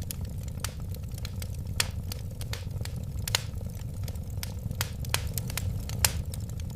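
Wood fire burning with a steady low rumble of flames and irregular crackles and pops, a few of them louder.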